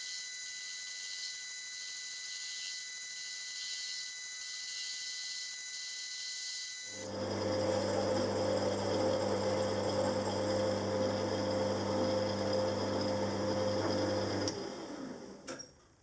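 Machine tools running while model engine parts are machined. A steady high whine plays first; about halfway a louder machine with a steady low hum starts, runs for several seconds, then stops, and a few clicks follow.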